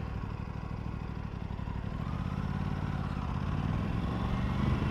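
Aprilia RS 457's parallel-twin engine running at low speed while riding, its pitch and loudness rising gently from about two seconds in as the bike picks up speed.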